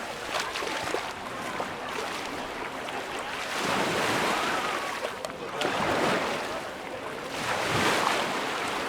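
Small Mediterranean waves breaking and washing up the beach, the surf rising and falling in repeated swells every couple of seconds.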